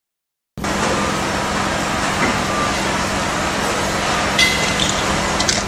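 Silence for about half a second, then a heavy engine running steadily with a constant low hum, and a brief higher tone with a short burst of noise about four seconds in.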